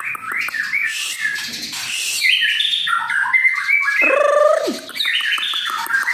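White-rumped shama (murai batu) singing a continuous, varied string of whistled notes and phrases.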